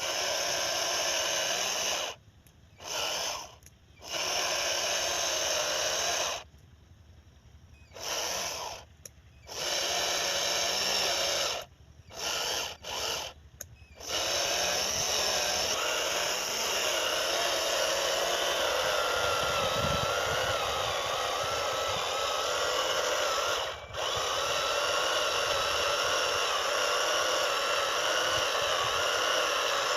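Small electric motors of a homemade RC tractor rig whining. They start and stop several times in the first half, then run steadily, the pitch wavering a little.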